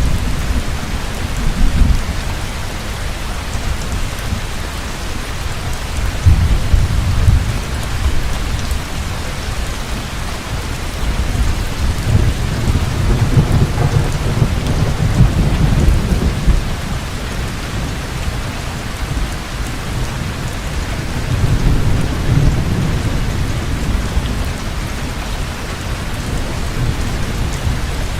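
Heavy rain pouring steadily, with deep rolls of thunder swelling and fading several times: about six seconds in, for several seconds in the middle, and again near the end.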